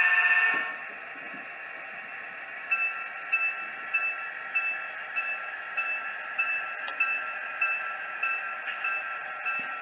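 Model diesel locomotive's sound decoder: a horn blast cuts off within the first second over the prime mover's steady running. About three seconds in, the locomotive bell starts ringing at about one and a half strokes a second: the decoder's automatic bell, triggered as the engine reaches speed step 3.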